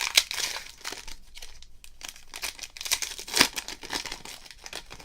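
Trading card pack wrapper crinkling and being torn open: a dense run of crackles, sharpest near the start and about three and a half seconds in.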